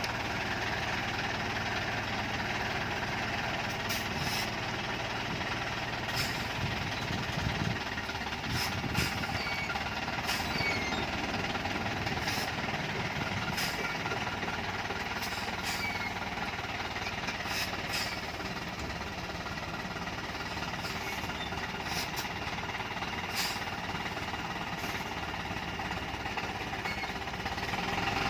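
Diesel engine of a modified Dongfeng truck running steadily, with sharp clicks every second or two.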